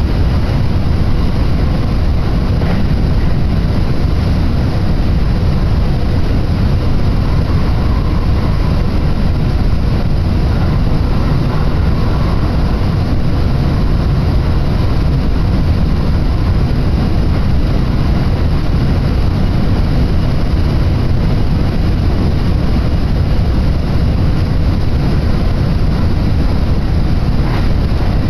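Kintetsu Osaka Line electric train running at speed, heard from inside the carriage: a loud, steady, deep rumble of wheels on track and running gear, with no letup.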